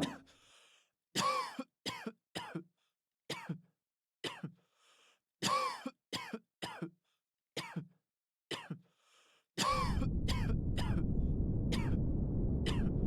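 A person coughing over and over, about fifteen short coughs and throat-clearings with brief gaps between them. About two-thirds of the way through, a steady low noise starts and runs on beneath the last few coughs.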